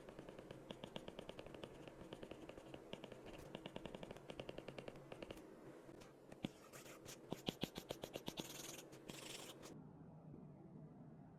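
Faint, quick back-and-forth drawing strokes scratching on paper, several strokes a second in spurts, stopping abruptly near the end.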